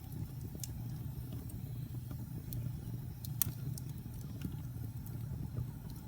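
Fire burning in a fireplace: a steady low rumble with scattered crackles and pops, the sharpest about three and a half seconds in.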